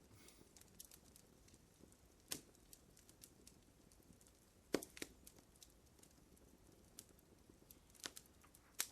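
Wood fire crackling faintly: a handful of sharp, separate pops and snaps over a low hiss.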